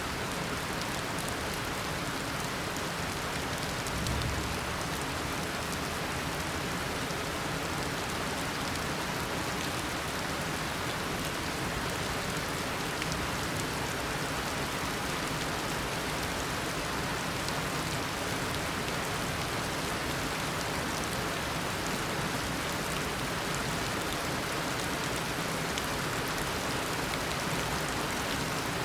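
Heavy tropical rain falling steadily, a dense hiss of drops with fine patter throughout, and a brief low rumble about four seconds in.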